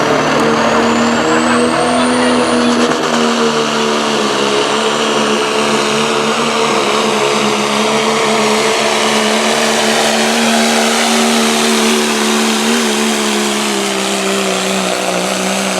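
Diesel pickup truck pulling the sled at full throttle, its engine running hard and steady with a high whistle rising over the first few seconds; the engine note sags slightly near the end as the load builds.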